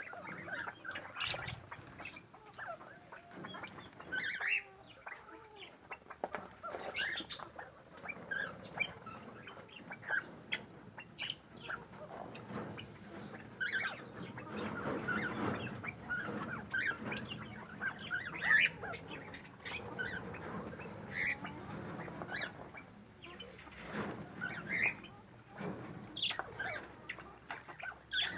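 A mixed flock of aviary fowl and birds calling: many short chirps and calls overlapping, with the calling busiest about halfway through.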